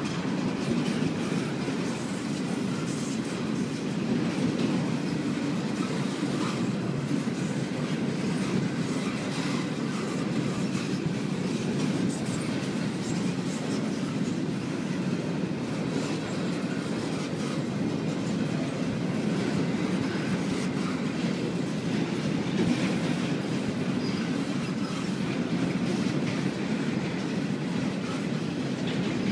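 Train cars rolling past, a steady rumble with scattered faint clicks from the wheels on the rails.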